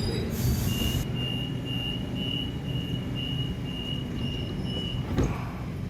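Electric suburban train at the platform humming steadily. A short burst of air hiss comes near the start, followed by a high beep pulsing about twice a second for around four seconds. A single sharp knock sounds near the end.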